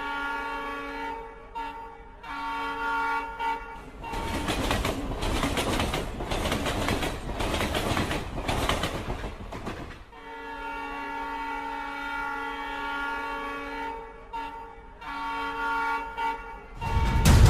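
Train horn sounding in long, steady multi-tone blasts with short breaks. In the middle the horn gives way to the rattle and rumble of a passing train for several seconds, then the horn returns. Loud music comes in just before the end.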